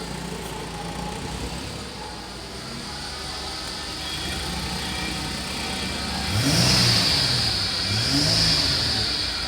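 Holden Commodore 3.8-litre V6 engine idling, then revved twice briefly, the pitch rising and falling back each time, with a hiss that swells during the revs.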